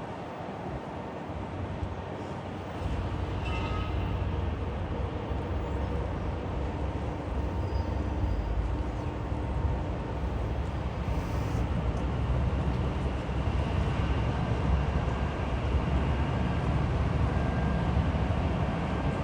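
Low, steady rumble of a large passing vehicle, growing louder about three seconds in and holding.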